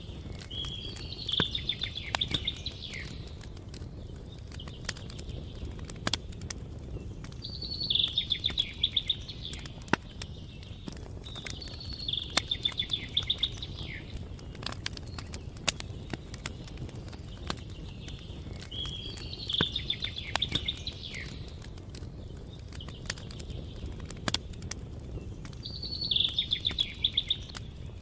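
A songbird repeating a short, quick trilled song phrase five times, about every six seconds, over campfire crackling: scattered sharp pops on a steady low rumble.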